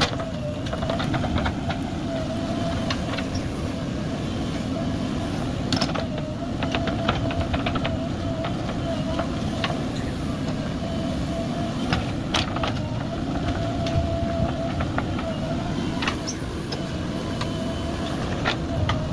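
JCB 3DX backhoe loader's diesel engine running steadily at work, with a wavering whine over it and scattered sharp knocks and clatters throughout.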